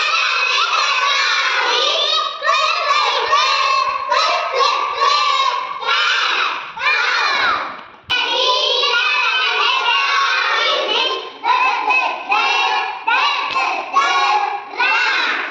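A group of young children chanting phonics sounds loudly together, breaking off briefly about eight seconds in and starting again.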